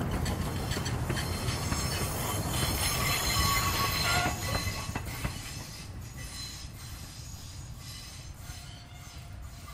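Loaded sugar cane train of bin wagons rolling past on a light rail line, with wheels rumbling and squealing on the rails. It is loudest about three to four seconds in, then fades as the train moves away.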